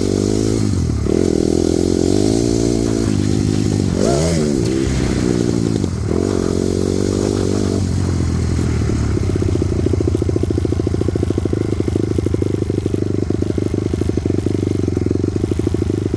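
Honda CRF250R dirt bike's single-cylinder four-stroke engine running under throttle. Its pitch rises and falls several times, with a quick rev up and back down about four seconds in, then holds steady through the second half.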